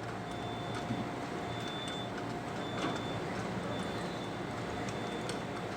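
Scania truck engine running at a steady speed, a constant low hum with a faint steady whine over it.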